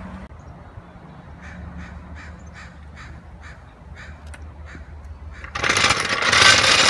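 A bird calling repeatedly outdoors, about nine short harsh calls at roughly three a second. About five and a half seconds in, a much louder metallic clatter starts and keeps going, as work on the car begins.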